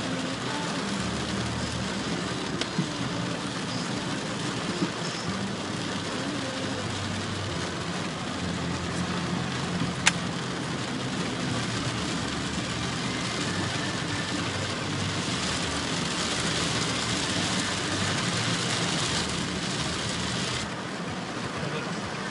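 Car running along a road in torrential rain, heard from inside the car: steady engine and tyre noise under the hiss of heavy rain. A single sharp click comes about ten seconds in, and the high hiss of the rain drops suddenly near the end.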